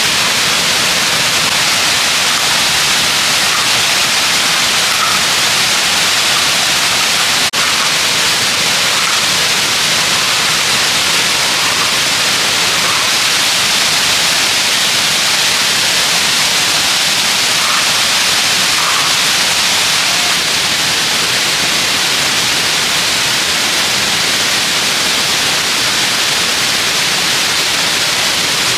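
Waterfall: a steady, loud rush of falling water, with one brief click about seven and a half seconds in.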